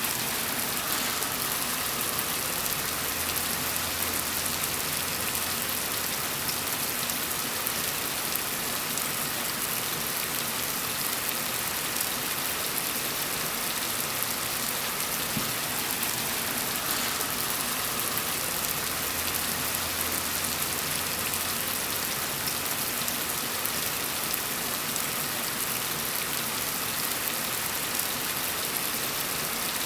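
Steady rain falling on a surface, a dense even hiss of drops with fine pattering. A faint low rumble swells under it twice.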